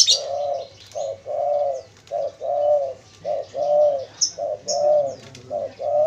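Spotted dove cooing: a steady series of low coos in pairs, a short note followed by a longer one, about five times over. A few faint high chirps from a small bird come in about four seconds in.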